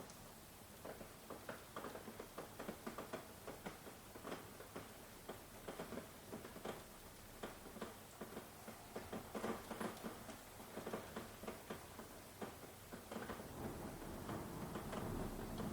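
Rain falling, with individual drops pattering and ticking irregularly. A low rumble swells near the end.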